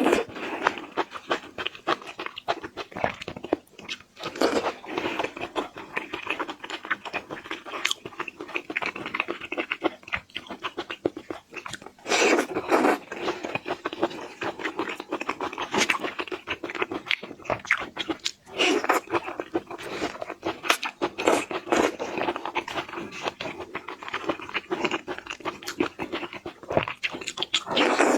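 Close-up ASMR eating sounds: shrimp being bitten and chewed, an unbroken run of small crunches and mouth clicks, louder in a few bursts.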